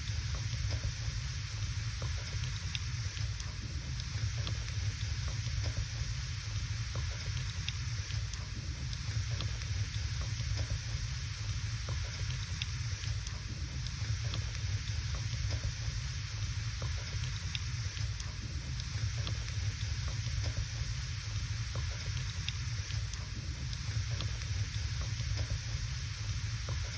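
Wood fire burning in a fireplace: a steady hiss and low rumble, with scattered small crackles and pops from the burning logs.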